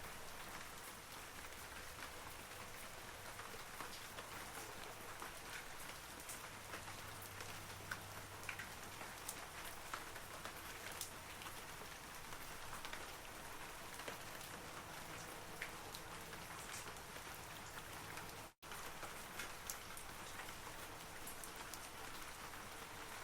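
Steady rain falling on forest trees, with scattered individual droplets tapping distinctly over the hiss. About eighteen and a half seconds in, the sound cuts out to silence for a split second.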